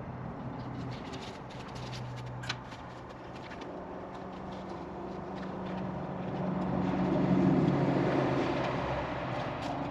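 A motor vehicle passing by, its engine and tyre noise growing to a peak about seven seconds in and then fading, with a few light clicks and rustles of handling over it.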